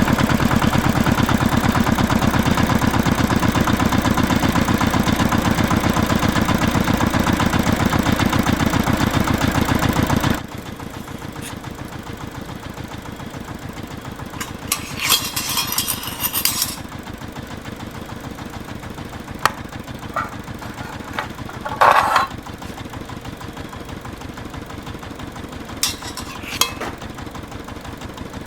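Small engine of a mini tractor running steadily and loudly, then dropping off abruptly about ten seconds in. After that a quieter steady hum remains, with a few scattered clicks and knocks.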